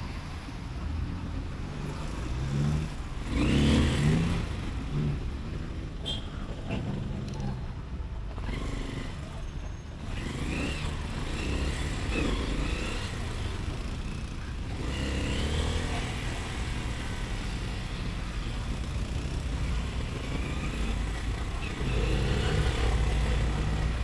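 Motorcycle engine and road noise heard from the rider's seat while riding through city traffic, the engine note rising and falling with the throttle. A louder swell comes about four seconds in, and the level rises again near the end.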